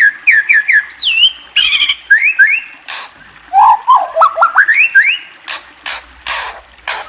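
A songbird singing: phrases of clear whistled notes, some sliding up and some dipping, repeated in quick runs, with short harsh noisy sounds between the phrases.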